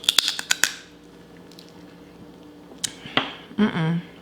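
Crab shell being cracked and snapped apart for eating: a quick run of sharp cracks in the first second and another crack near three seconds in, followed near the end by a short hummed vocal sound.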